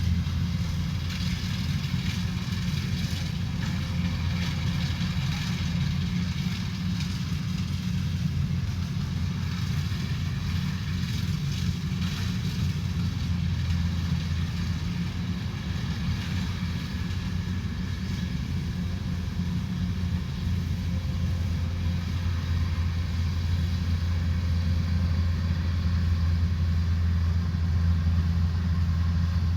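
Combine harvester's diesel engine running steadily with a deep hum, a lighter rattling hiss of machinery over it, growing a little louder near the end.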